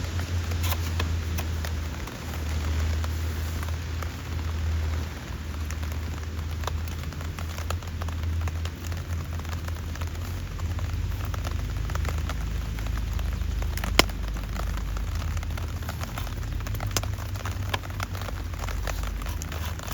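Steady rain falling, with many small drop ticks over a low rumble. One sharp click stands out about fourteen seconds in.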